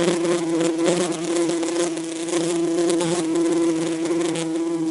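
Steady insect buzzing: one even held tone with overtones that does not waver.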